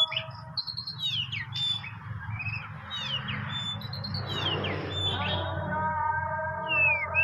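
Oriental magpie-robin (kacer) singing: repeated short, curved, sweeping whistles, several each second. A steady droning chord of level tones drops out just after the start and comes back about five seconds in.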